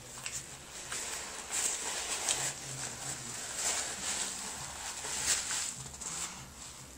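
Close-up eating sounds: biting into and chewing an al pastor taco, with irregular wet clicks and crackles from the mouth and tortilla.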